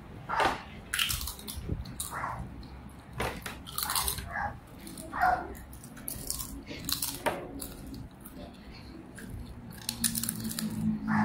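Crisp fried seaweed and fried wrapper chips crunching as children bite and chew them, in irregular crunches every second or so.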